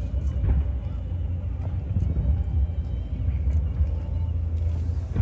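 Fireworks display: a dense, continuous low rumble of shell bursts, with a few faint crackling pops on top.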